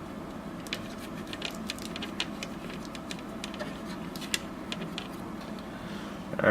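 Scattered light ticks and scrapes of small tools and hands working over the console's circuit board while it is cleaned up after soldering, over a steady fan hum.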